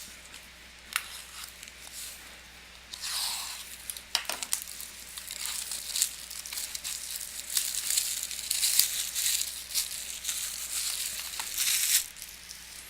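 Plastic wrapping on trading-card packaging being torn open and crinkled, a rapid crackling full of sharp clicks. It is sparse for the first few seconds, then goes on almost without a break.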